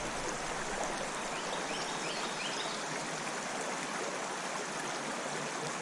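Creek water running steadily, an even rushing wash, with a few faint high chirps about two seconds in.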